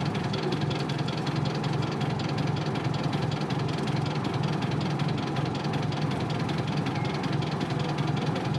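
Isuzu Cubic city bus's 8PE1 V8 diesel engine running steadily, with an even low pulsing and no change in pitch.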